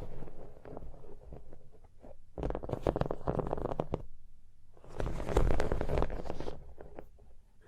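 ASMR tapping: rapid taps on an object close to the microphone, coming in two dense runs of a second or more each, with softer, sparser taps around them.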